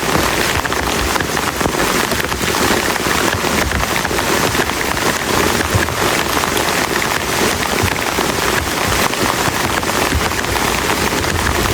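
Heavy rain falling steadily on a plastic tarp shelter, a dense, even patter of drops.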